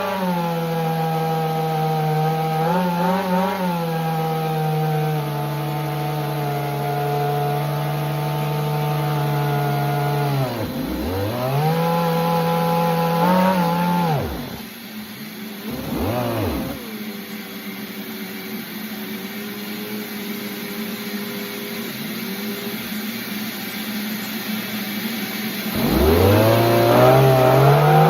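A small engine running steadily, then dying away about ten seconds in and picking back up, cutting out again with a brief spurt, running on at a lower pitch, and revving back up near the end.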